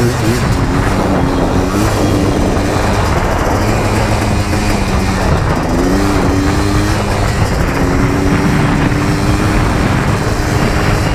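ATV engine running while being ridden, its pitch rising and falling several times with the throttle over a dense rushing noise.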